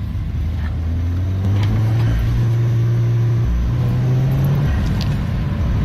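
Peugeot 208 GTI's turbocharged 1.6-litre four-cylinder accelerating through a TMSR2 induction kit, its note climbing steadily, then dropping sharply at a gear change near the end before starting to climb again.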